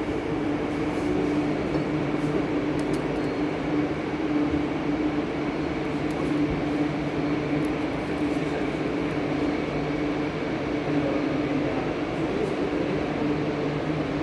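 Steady machine hum: a constant low drone over even noise, with no changes in pitch or level.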